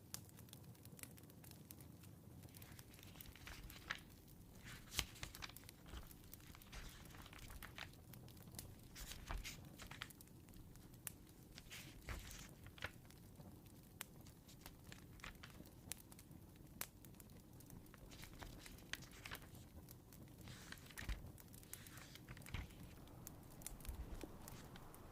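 Faint wood fire crackling in a fireplace: irregular sharp pops and snaps over a low steady rumble.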